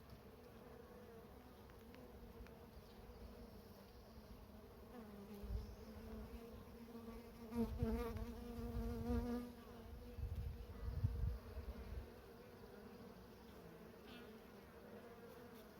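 Honey bees buzzing steadily around an open hive, the buzz growing louder and wavering in pitch for a couple of seconds around the middle. Low rumbles come and go underneath.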